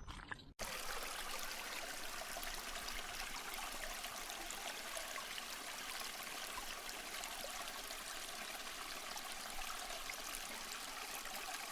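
Steady hiss of falling or running water, even throughout and starting abruptly on a cut.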